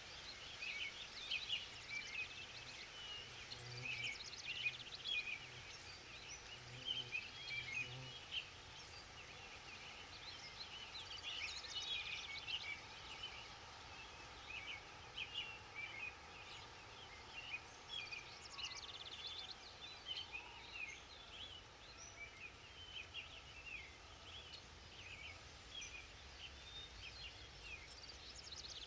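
Forest ambience of many small birds chirping and trilling in quick, overlapping calls throughout, with a low, repeated pulsing call from about three to eight seconds in.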